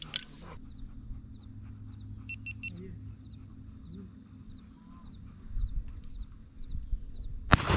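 Insects buzzing steadily, then a single shotgun shot near the end, the loudest sound, with a short echo.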